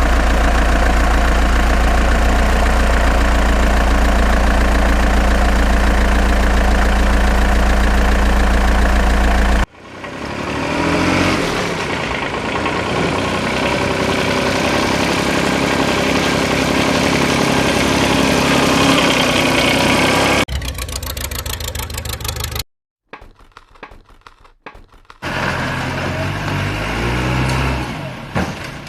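Heavy vehicle engine sounds: a steady idle with a deep hum, then after an abrupt cut about ten seconds in, an engine revving and changing in pitch. Further sudden cuts follow, with a short gap of near silence before the engine sound returns.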